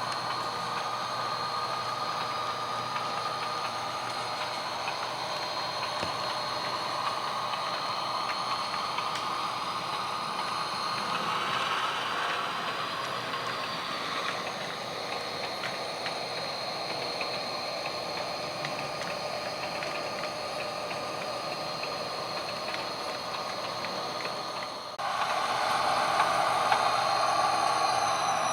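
HO scale model train running: the GP38 locomotive's steady diesel engine sound from its sound decoder, with the fine clicking and whir of the model's wheels and gearing on the track. It gets louder near the end.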